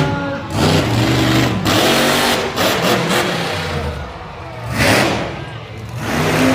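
Monster truck engine revving, its pitch rising and falling, with a loud surge about five seconds in.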